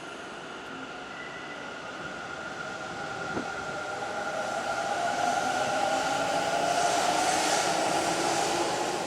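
Hanshin Railway electric train running past, its noise building over several seconds with sustained whining tones and peaking about seven seconds in.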